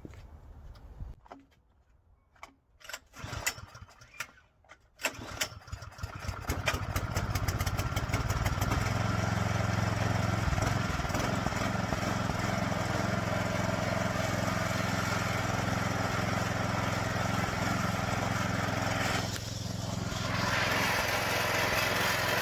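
Snowblower engine, freshly primed, catching about five seconds in after a few clicks and knocks, sputtering up and then running steadily. Near the end its note drops lower for a moment and then recovers.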